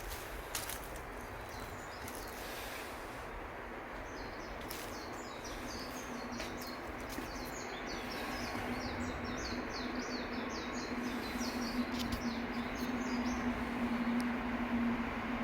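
A bird singing a long run of rapid, high repeated chirps over steady outdoor background noise. A low steady hum builds up in the second half and stops abruptly near the end.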